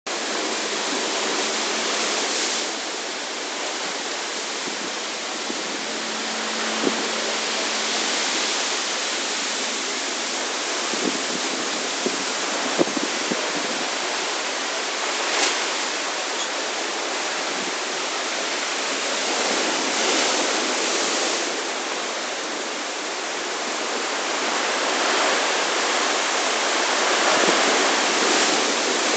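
Heavy rain pouring down in strong gusting wind: a steady rushing that swells and eases every several seconds, with a few sharp knocks near the middle.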